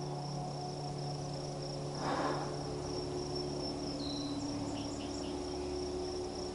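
Insects trilling in one steady high pitch without a break, with a short soft rush of noise about two seconds in and a few faint small chirps near the middle.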